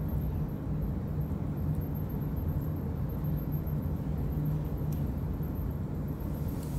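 A steady low hum with a constant background rumble.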